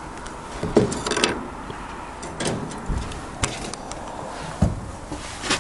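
An aviary door being pulled shut and fastened: a handful of separate knocks and clicks of wood and metal, spread over several seconds.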